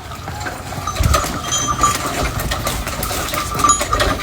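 Donkey cart under way on a muddy road: irregular clinks and knocks of the harness and cart, with a steady ringing tone, over a low rumble.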